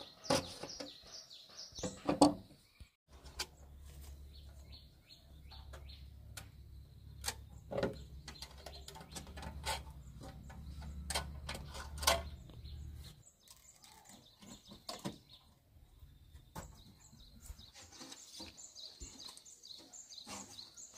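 Birds chirping, with scattered knocks and clacks, the loudest about two seconds in and about twelve seconds in. A low steady hum starts about three seconds in and stops about thirteen seconds in.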